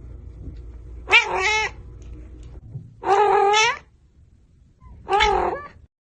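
A cat meowing three times, drawn-out calls about two seconds apart, each rising then falling in pitch.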